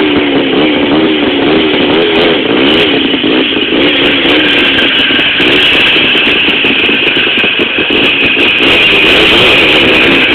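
Jawa motorcycle engine running loudly, its pitch wavering up and down with the throttle.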